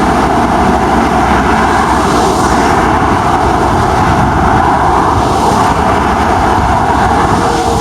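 Steady, loud vehicle engine noise: an even rushing drone with no clear rhythm or pitch changes.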